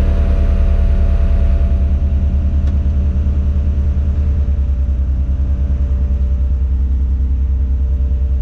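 Tadano 180G-5 all-terrain crane's diesel engine running steadily, heard inside the operator's cab as a loud, low drone with steady whining tones above it; one of the higher tones fades about two seconds in.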